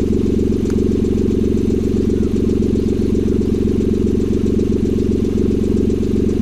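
Suzuki MR Wagon's small three-cylinder engine idling steadily through an aftermarket sports exhaust, a low, muffled drone.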